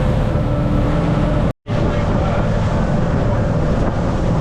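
Fishing boat's engine running steadily, a low, even drone with wind and water noise over it; the sound drops out completely for a split second about one and a half seconds in.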